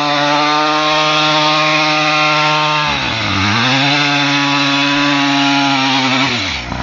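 Mini bike's small engine held at high revs while the rear tyre spins in a burnout, with a wide hiss over the engine note. The revs dip briefly about three seconds in, climb back, then drop away near the end.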